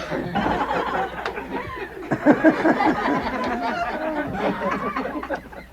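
Several people snickering and chuckling together, a dense run of short laughs from a novelty sound-effects tape, fading just at the end.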